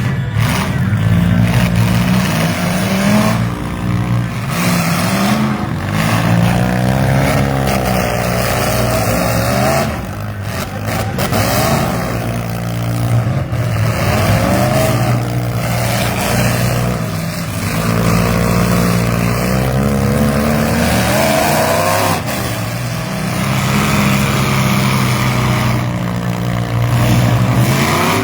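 Several demolition derby vans, SUVs and mini trucks running hard, their engines revving up and falling back over and over under a steady low engine drone.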